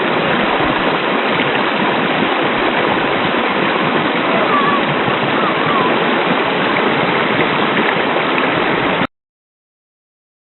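Hot spring waterfall pouring into a river: a steady, even rush of falling water that cuts off abruptly about nine seconds in.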